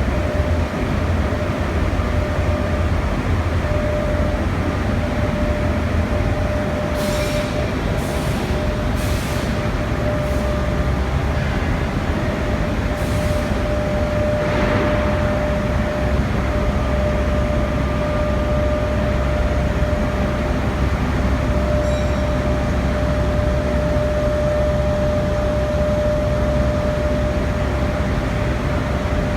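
Steady, loud industrial plant noise from an aluminium melting and casting line: a continuous low rumble with a steady hum, and a few short hissing bursts, several between about 7 and 10 seconds in and another around 13 seconds.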